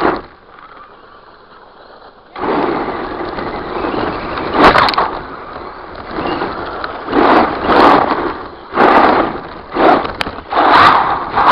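Redcat Volcano RC truck driving hard, heard from a camera mounted on it: a knock at the start, then from about two seconds in a steady rush of tyres and drivetrain over rough ground with sharp knocks, and from about seven seconds in repeated loud surges about once a second as it is punched and bounces.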